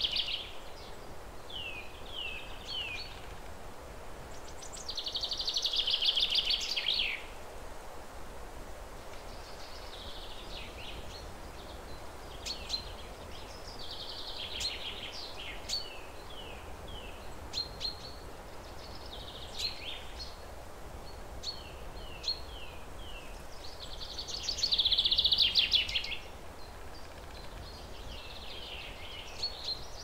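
Songbirds singing over steady background noise: series of short chirps and downslurred notes, and twice a louder rapid trill lasting about two seconds.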